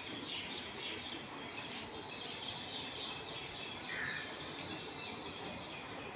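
ICF passenger coaches rolling slowly past a platform, a low rumble under a dense, steady run of high chirping.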